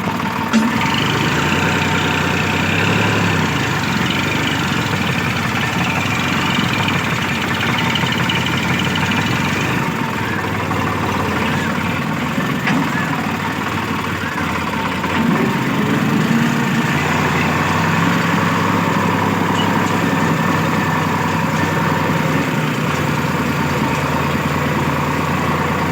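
Sonalika tractor's diesel engine running steadily, its note shifting about a second in and again about fifteen seconds in.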